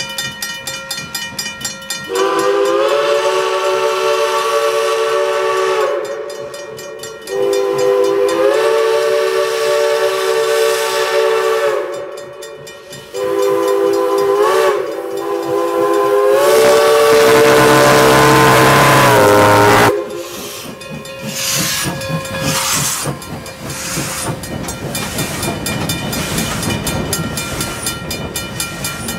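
Steam locomotive No. 98, a 4-4-0, blowing its chime whistle in the grade-crossing signal: two long blasts, a short one and a final long one, the pitch sagging as each blast starts and ends. After the last blast the train's running noise follows, with rhythmic clicking from the track.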